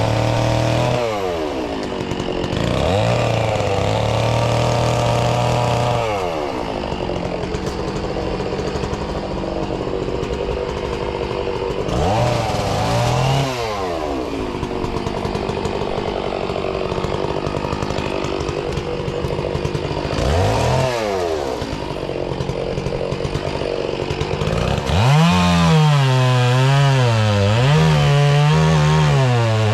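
Two-stroke chainsaw revving up and dropping back to idle several times. Near the end it runs at high revs for several seconds, its pitch wavering rapidly up and down as it cuts into wood.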